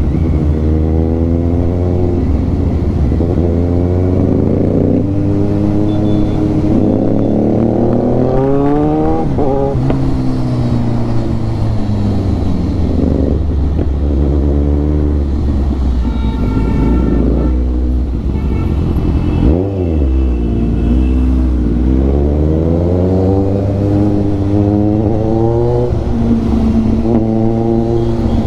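Kawasaki Ninja 1000's inline-four engine through a full-system Austin Racing exhaust, riding in traffic: it accelerates again and again, its pitch climbing in runs, then falls back between pulls.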